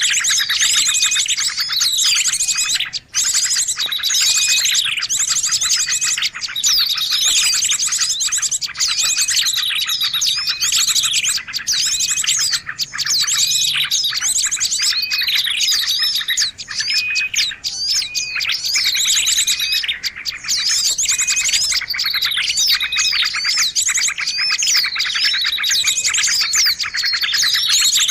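Dense, noisy chorus of many small birds chirping and twittering over one another without a break: a mixed-species bird-lure recording (suara pikat) used to draw birds in.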